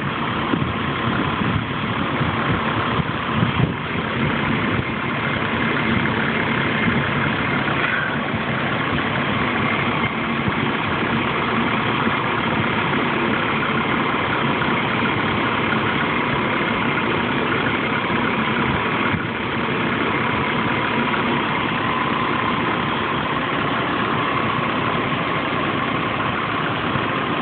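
1998 Chevy Blazer's 4.3 L V6 idling steadily with the AC switched on and its newly replaced compressor running under charge, a faint steady whine over the engine's hum.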